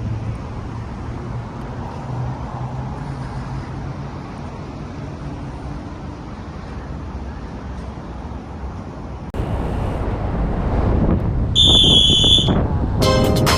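A vehicle engine running steadily under way, with road and wind noise; about nine seconds in the sound cuts abruptly to louder road noise, followed by a short high tone, and music begins right at the end.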